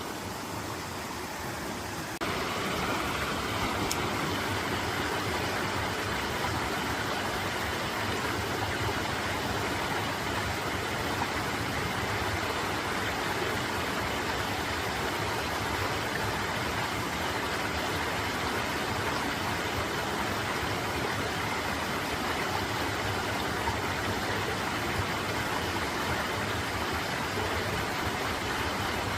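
Mountain valley stream with water rushing in a steady rush, which gets louder about two seconds in.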